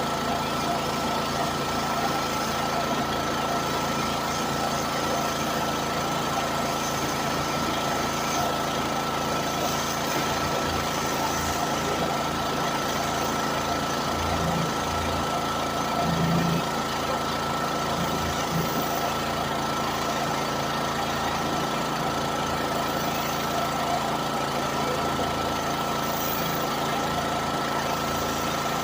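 An engine running steadily at idle, with a constant high whine over a dense, even noise and a brief low swell about halfway through.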